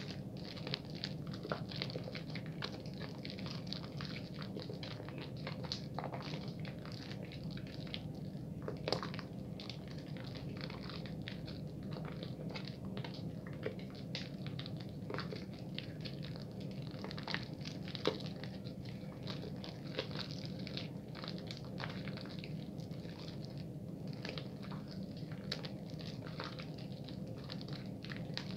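Bar soap being lathered quickly in wet hands: a dense, irregular run of small wet squishes and crackles over a steady low hum.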